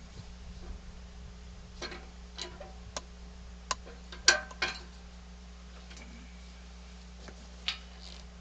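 Scattered metal clicks and clanks from equipment being handled, irregularly spaced, the loudest about four seconds in, over a steady low hum.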